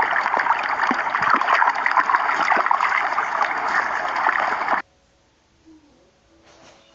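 Water running and splashing hard and steadily, then cutting off suddenly about five seconds in.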